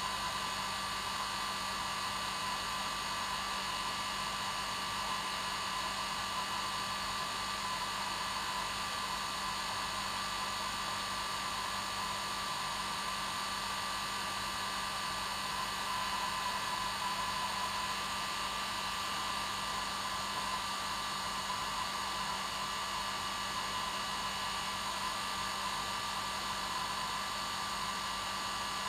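Hair dryer running steadily on its normal setting: a continuous rush of air with a steady motor hum and whine.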